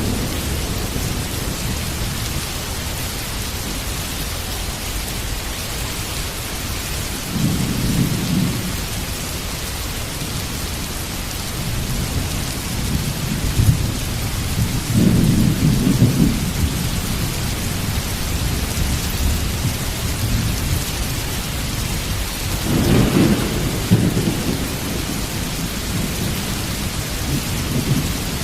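Heavy rain falling steadily in a thunderstorm, with thunder rumbling low three times: a short roll about eight seconds in, a longer one in the middle, and another near the end.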